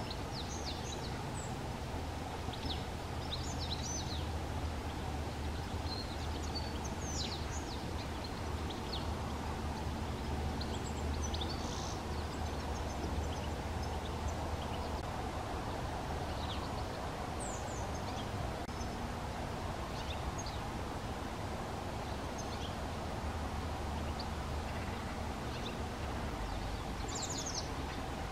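Eurasian blue tits calling: short, high, thin notes, many sweeping quickly downward, scattered irregularly throughout. A steady low background rumble runs underneath.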